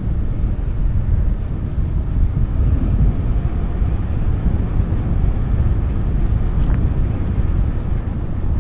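Wind buffeting the microphone of a helmet-mounted action camera while cycling, heard as a loud, uneven low rumble.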